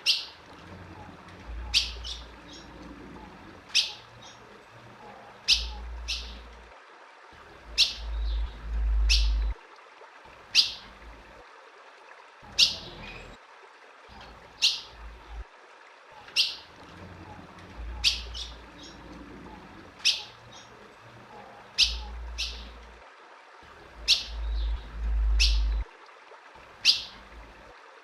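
Female ultramarine grosbeak (azulão) giving short, sharp single chip calls, about one every one to two seconds. A low rumble comes and goes underneath.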